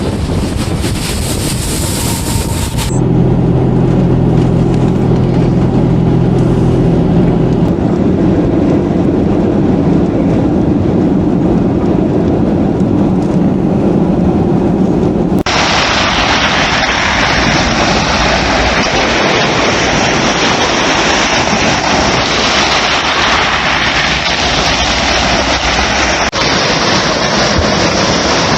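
Storm noise of wind, rain and surf, loud and continuous, cut together from separate clips that change abruptly about 3 and 15 seconds in. Through the middle stretch a steady low mechanical hum, like an engine running, sits under the noise; the last stretch is a dense, even hiss.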